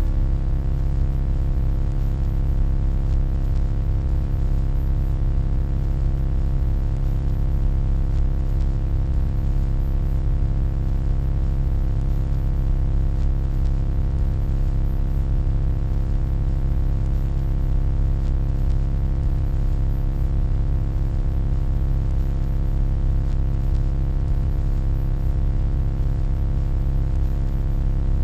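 Steady electronic hum: a deep, even drone with many held tones stacked above it and a faint hiss over the top, unchanging throughout.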